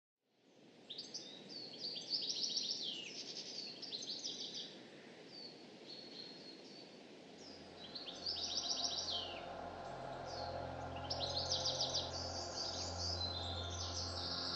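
A flock of budgerigars chattering and warbling, with quick trills and chirps that come in bouts, over a steady background hiss. A low steady hum joins about halfway through.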